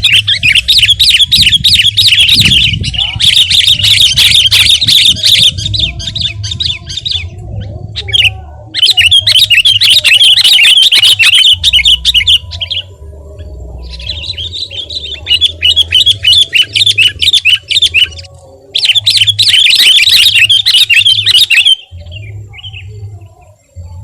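Sooty-headed bulbul (kutilang) singing gacor: about five long bursts of rapid, dense chattering song, each a few seconds long, separated by short pauses. A steady low hum runs beneath.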